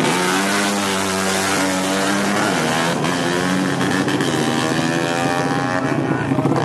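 A 200cc motorcycle engine revving hard, its pitch climbing, dropping briefly about two and a half seconds in, then climbing again.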